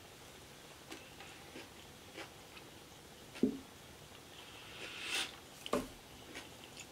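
Close-up chewing of a turkey burger, soft wet mouth clicks. About three and a half seconds in, a dull thump as the burger is set down on a glass tray; a short rustle and a sharp knock follow a couple of seconds later as a plastic fork is picked up.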